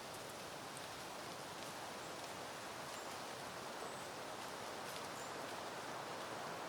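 Soft wind moving through peony bushes, a steady rustling hiss of leaves that swells slightly toward the end, with a few faint ticks.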